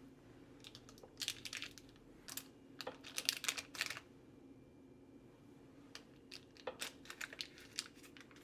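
Two bursts of rapid light clicking and crinkling as butter is cut and handled out of its wrapper, with a faint steady hum beneath.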